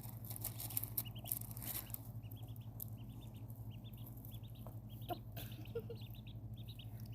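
Ducklings peeping: a stream of short, high peeps, several a second, starting about a second in, over a steady low hum.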